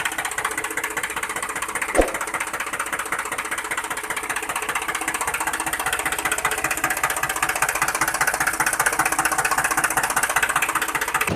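Small motor running with a fast, even rattle, with one sharp click about two seconds in.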